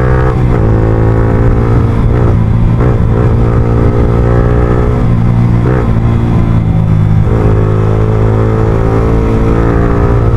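Yamaha R15M's single-cylinder engine breathing through an Akrapovic full-system exhaust, heard from the rider's seat while riding. The engine note holds mostly steady, with several brief dips and recoveries in pitch as the throttle is eased and reapplied.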